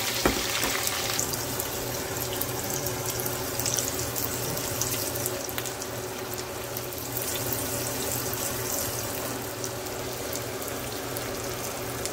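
Sliced onions sizzling and crackling as they fry in hot oil in a nonstick wok, with one knock just after the start.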